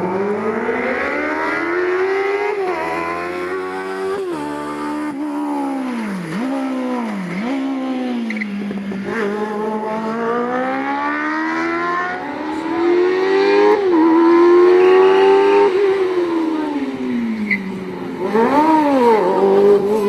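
Smart Fortwo fitted with a Kawasaki Ninja motorcycle engine, revving high and climbing through the gears, with a sudden drop in pitch at each shift. It slows and accelerates again several times, with quick rev blips near the end.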